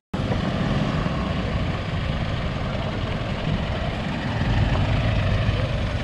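Mitsubishi Montero Sport SUV's diesel engine running as it drives slowly over a rough dirt road, with tyre and road noise; it grows a little louder about two-thirds of the way through as it comes nearer.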